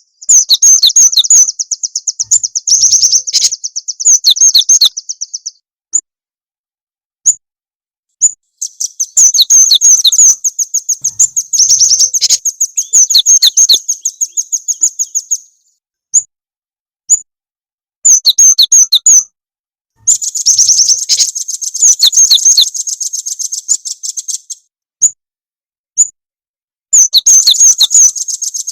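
Loud recorded bird-lure song of the cinereous tit (gelatik batu) and velvet-fronted nuthatch (rambatan). Fast, high-pitched chirping trills each run several seconds, separated by single sharp chirps.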